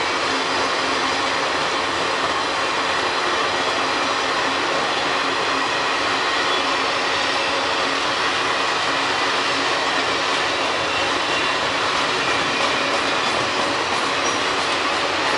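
Circus train's passenger cars rolling steadily past: a continuous rush of steel wheels running on the rails.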